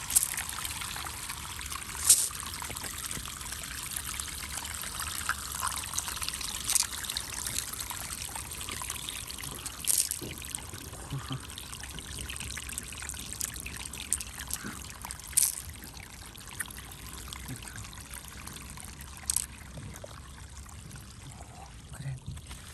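Water trickling and splashing steadily, with a sharp click every few seconds, five in all.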